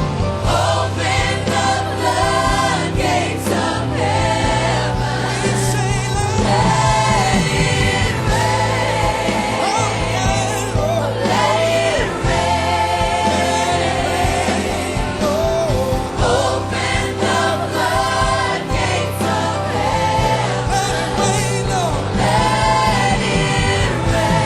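A church worship band and choir performing a gospel worship song, with singing over a steady bass line.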